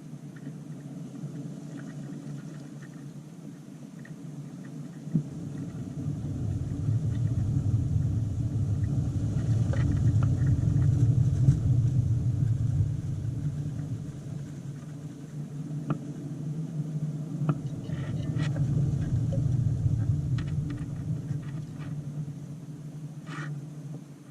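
A low rumble that swells and fades twice. A few short, faint, high chirps sound over it.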